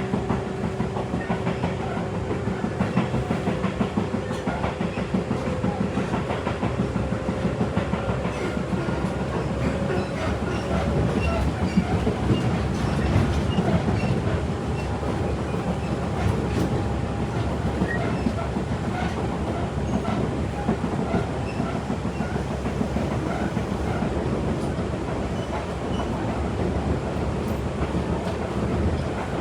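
Tobu 8000 series electric commuter train running along the line, its wheels clattering over rail joints above a steady rumble, with a faint hum that rises slowly in pitch for several seconds.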